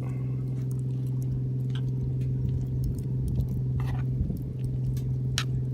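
Light scattered clicks and scrapes of a utensil against the campfire frying pan as the slightly burnt rice is worked. A steady low hum runs underneath.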